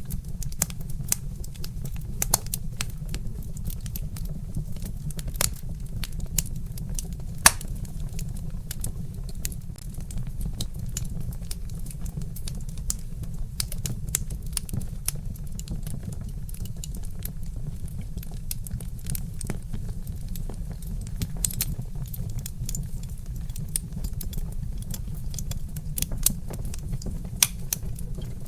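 Wood fire crackling, with frequent sharp pops and snaps over a steady low rumble; one pop about seven seconds in is louder than the rest.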